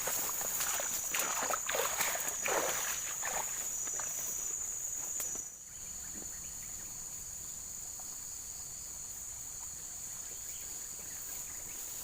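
Steady, high-pitched drone of insects, likely cicadas or crickets, along a riverside. For the first five seconds or so it sits under a run of louder swishing noises from someone moving through water or brush. Those stop suddenly, and only the insect drone carries on.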